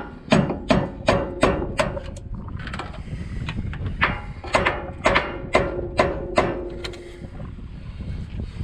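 Hammer striking metal on the front brake caliper, two runs of ringing blows about two a second with a short pause between.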